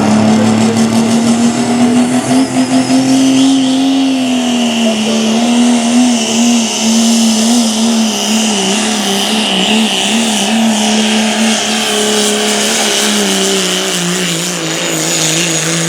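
Diesel pickup truck from the 3.0 Limited Pro Diesel class running at full throttle while pulling the sled: a loud, steady engine drone whose pitch wavers and then sags slowly in the last few seconds as the load builds.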